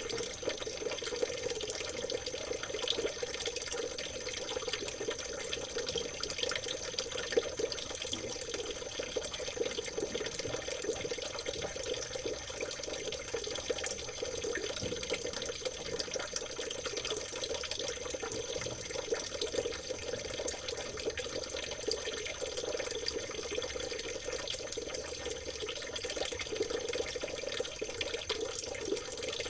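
Small stream of water trickling and babbling steadily over stones, an even splashing with fine bubbling crackles.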